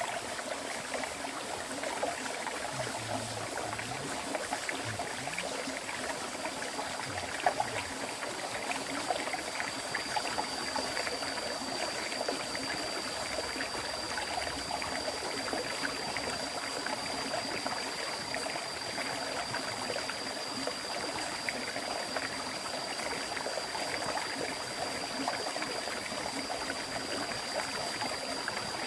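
River water flowing: a steady rush and babble of stream water. A thin, steady high tone sits above it, stronger from about ten seconds in.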